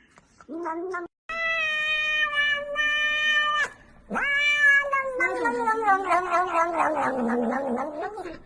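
Domestic cat yowling: a short meow, then a long steady yowl of about two seconds, then another long yowl that slides down in pitch and turns rough and growly near the end.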